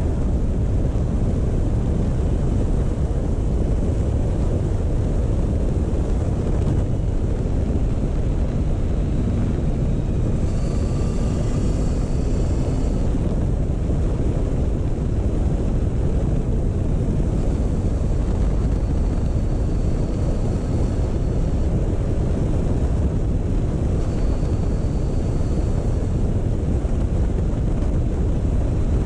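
Motorcycle on the move: a steady rush of wind over the microphone with the engine running underneath.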